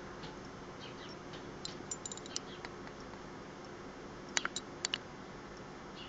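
Faint short chirps from a small bird, with a run of light clicks about two seconds in and two pairs of sharper taps between four and five seconds in, over a faint steady hum.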